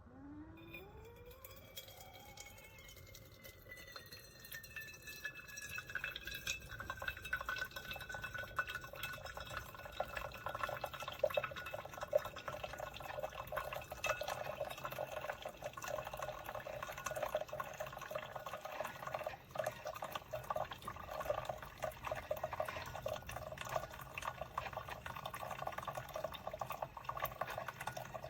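Drip coffee maker brewing: hot water hissing, gurgling and dripping, a short rising tone at the start, then getting louder about four seconds in and running on steadily.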